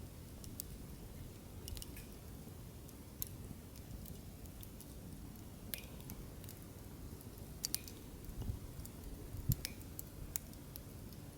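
Wood fire crackling: scattered sharp pops and snaps over a low steady noise of the burning logs, with a few louder pops in the second half.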